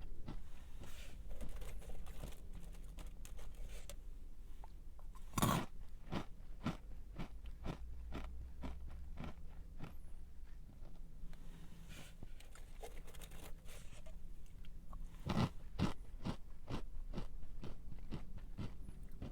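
Close-up chewing of a crunchy snack: a steady run of small crackling crunches, with a sharper, louder bite about five seconds in and another about fifteen seconds in.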